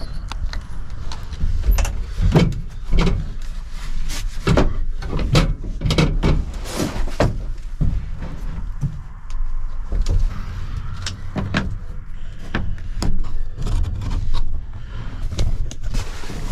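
Irregular knocks, clunks and rustling from someone climbing into the back of a pickup truck under its topper, with the topper door handled. The knocks come every second or so, over a steady low rumble.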